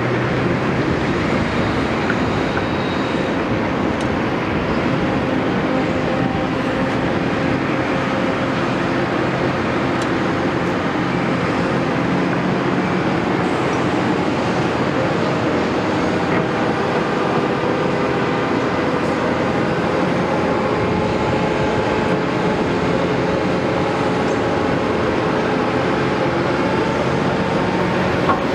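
Caterpillar 329E hydraulic excavator working: its diesel engine runs steadily, with several held tones that drift slightly in pitch over the machine noise.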